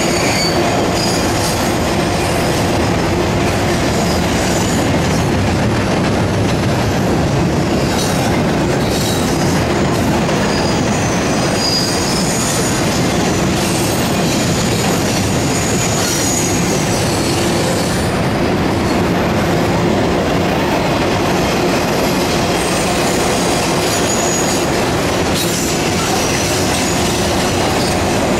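Railroad cars rolling past, a steady loud rumble of steel wheels on rail with short high-pitched wheel squeals now and then.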